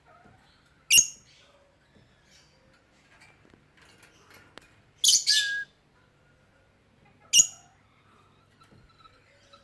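Pet lovebird giving three loud, shrill calls: one about a second in, a longer double call about five seconds in, and one more near the end, with faint soft chattering between them.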